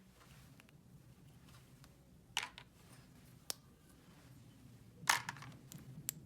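Small toy pieces clicking and tapping as they are handled: four or five sharp clicks spread out, over a faint low hum.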